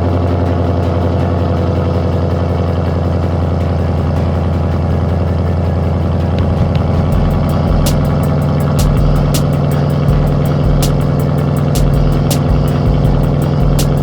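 A car engine idling with a steady low rumble. About halfway through, a music beat comes in over it with evenly spaced ticks and low thumps.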